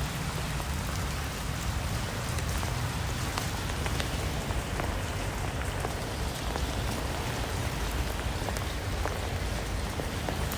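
Steady rain falling, with many separate drops ticking over a low rumble.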